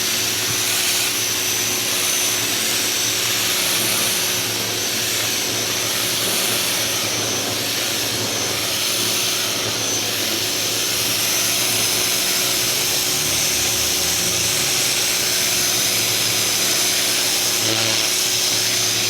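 Ryobi 2000 PSI electric pressure washer running steadily, its motor and pump humming under the steady hiss of the high-pressure water jet.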